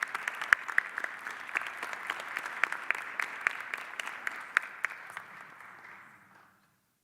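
Audience applause with distinct individual claps, fading out about six and a half seconds in.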